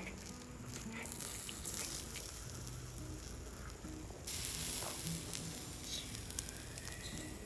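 Meat sizzling as it grills over a wood campfire, with scattered crackles and a louder burst of hiss about four seconds in.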